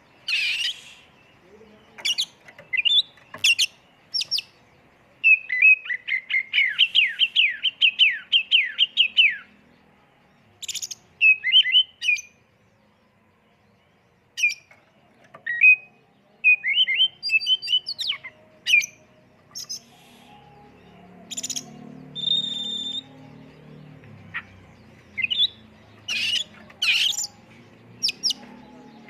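Oriental magpie-robin (kacer) singing in varied phrases of sharp, sweeping whistles and chips, with short gaps between phrases. About five seconds in comes a fast four-second run of repeated downward-sweeping notes, the rapid 'tembakan' burst prized in a full-song kacer.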